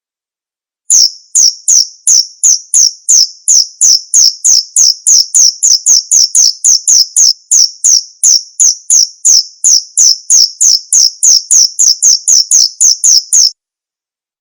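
Male cricket calling song: loud, short, high chirps repeated evenly about three to four times a second. It starts about a second in and cuts off abruptly near the end.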